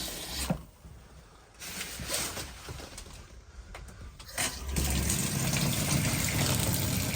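Water running steadily from a camper's tap, starting about four and a half seconds in, with the on-board 12-volt water pump running: the pump is pushing RV antifreeze through the plumbing to winterize it.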